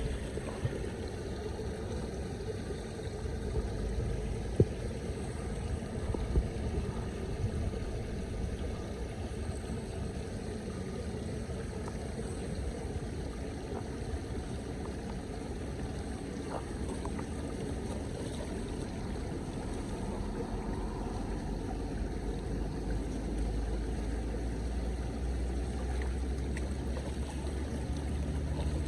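Floodwater flowing and sloshing steadily, with a few light knocks.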